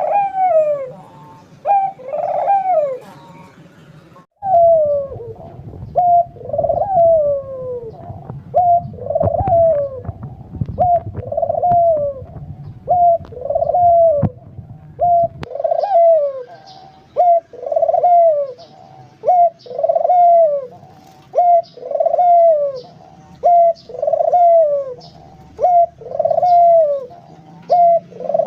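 Barbary dove (puter) cooing over and over, each coo a short note followed by a longer one sliding down in pitch, repeated about once a second without pause.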